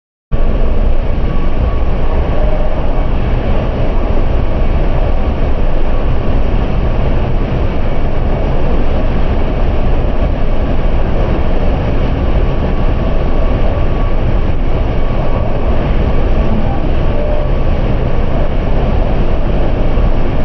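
Steady, loud rumble and rushing noise of a vehicle in motion, with a faint steady whine above it.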